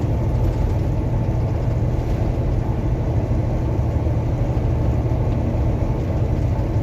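Steady low rumble of a semi-truck's engine and road noise, heard from inside the cab.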